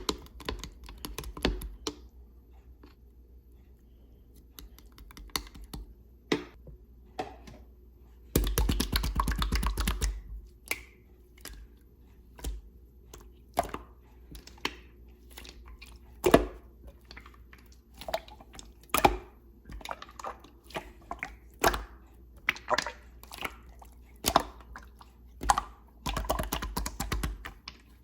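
Slime being squished and pressed by hand, making scattered sticky clicks and pops, with a dense run of rapid crackling clicks about eight seconds in and another shorter one near the end.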